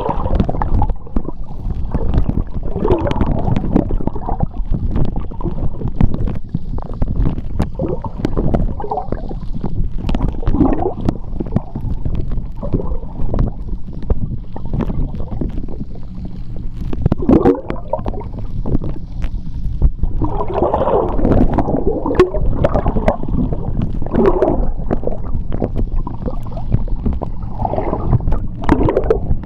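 Underwater sea sound heard through a submerged microphone: a constant low, muffled rumble of moving seawater with irregular gurgling swells and many small bubble clicks and pops.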